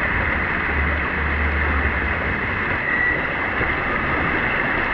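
Steady rush of water with a low rumble, the rumble strongest in the first half. Typical of riding down a tube water slide, with water and air noise on the microphone.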